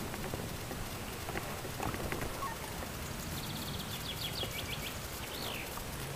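Small songbird giving a quick trill that steps down in pitch about halfway through, followed by a short high swooping note, over a steady rustling hiss with a few faint clicks.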